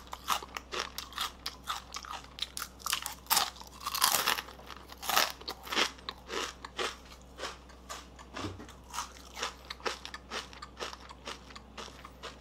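Someone biting and chewing crisp tempura close up: many sharp crunches that grow softer and further apart toward the end. The thin batter, left 30 minutes at room temperature, is still crisp.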